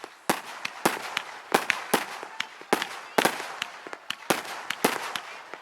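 Fireworks display: a rapid, irregular string of sharp bangs and crackling pops, several a second, going on without a break.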